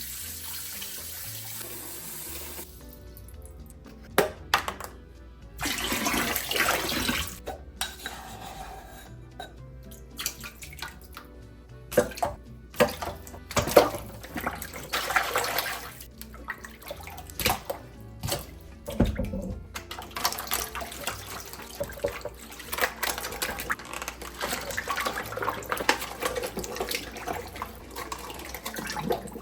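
Water running from a kitchen tap into a sink and splashing over things being washed, coming and going in spells, with occasional knocks of items handled in the sink.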